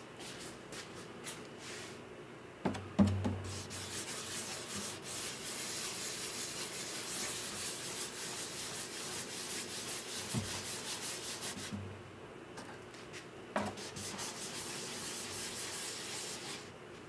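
Sandpaper rubbing on the wood of a guitar under repair: two long stretches of steady sanding, each starting with a short knock, the first about three seconds in and the second near fourteen seconds.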